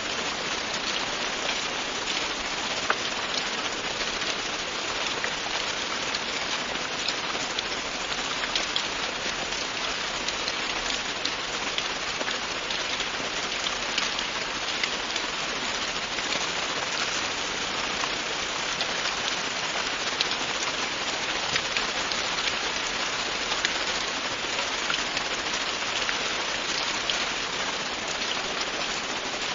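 Steady, continuous rain falling on a surface, with individual drops ticking sharply here and there over an even hiss.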